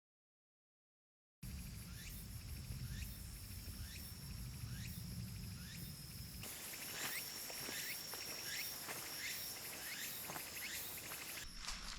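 Tsukutsukubōshi cicadas (Meimuna opalifera) singing in a forest chorus, a call repeated about every half second over a steady high-pitched insect drone. It starts suddenly after about a second and a half of silence.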